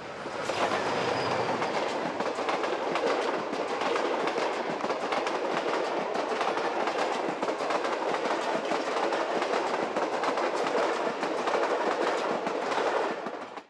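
Passenger train passing close by: a diesel locomotive's engine is heard in the first couple of seconds, then the coaches roll past with steady rail noise and wheels clicking over the rail joints. The sound stops abruptly at the end.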